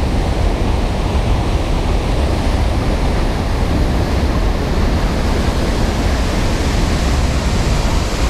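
Waterfall in flood after heavy rain, a loud, steady rush of falling water with a deep rumble underneath.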